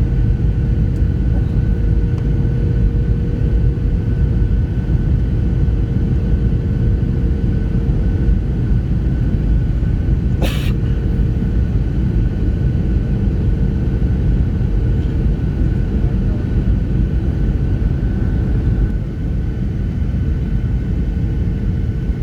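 Steady low rumble of an airliner heard from inside the passenger cabin, with a steady hum over it. A single sharp click about ten seconds in.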